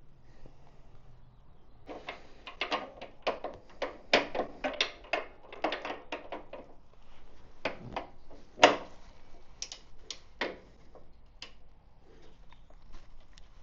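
Irregular clicks, clinks and knocks of hand tools and metal parts being handled while unbolting motorcycle parts, with one sharper knock about eight and a half seconds in.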